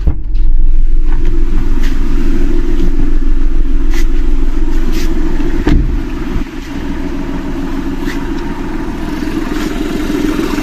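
Volkswagen Polo TDI diesel engine idling steadily, running with the AC switched on but its compressor clutch not engaging. The sound grows louder as the driver's door opens just after the start, and a sharp knock a little past halfway comes as the door shuts.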